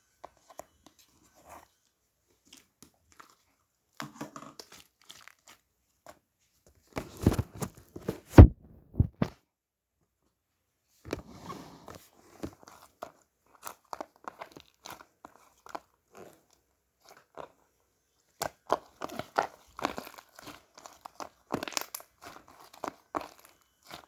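Irregular crunching and chewing, with the loudest crunches about seven to nine seconds in.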